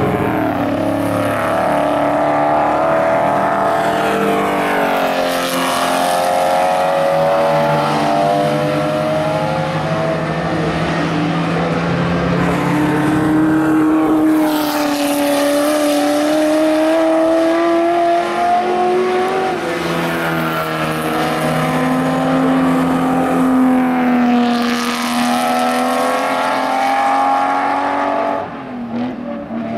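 Several 1960s sports-racing cars at full throttle passing in close succession, their engine notes overlapping and rising and falling as each car goes by. The engine sound dips briefly near the end.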